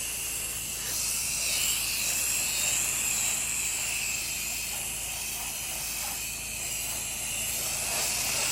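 Pressure washer spraying water down a house exterior: a steady, even hiss, with a low steady hum underneath.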